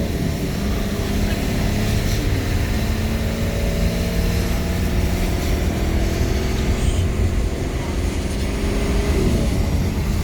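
Motor vehicle running, a steady low rumble with an engine hum whose pitch shifts about nine seconds in, over a hiss of road or rain noise.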